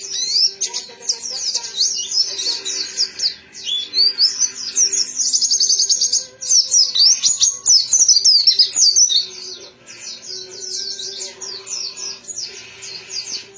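Pleci (white-eye) singing a fast, unbroken twittering song of high chirps and trills, loudest in the middle and softer over the last few seconds.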